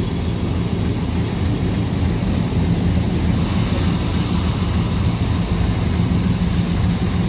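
Moving train running, a steady, even rumble heavy in the low end, with rushing noise and no horn.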